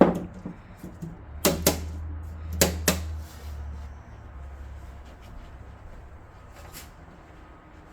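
Front panel of a small-form-factor PC case being fitted: a knock, then two pairs of sharp snapping clicks about a second apart as it clips into place, and a fainter pair of clicks near the end.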